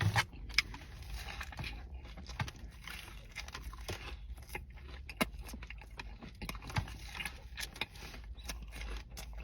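Close-up chewing of a crispy fried chicken tender sandwich: scattered small crunches and mouth clicks over a low steady hum.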